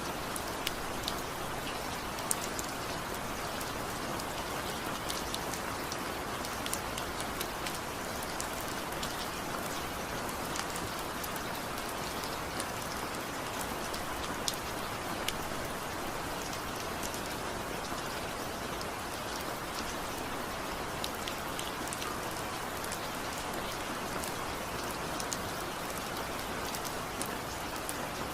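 Steady rain falling, a constant hiss with scattered sharper drop ticks, no thunder.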